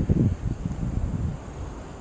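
Wind buffeting the microphone in irregular low gusts, strongest just after the start and easing off toward the end.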